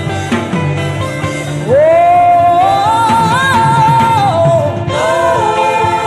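A solo voice carries a slow wordless worship melody in long, gliding held notes over a steady instrumental backing. The voice swells in loudly about two seconds in.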